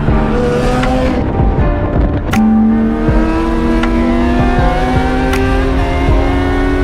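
Car engine pulling under acceleration, its pitch climbing steadily, with a sudden drop about two seconds in like a gear change before it climbs again. Music with a light, regular beat plays underneath.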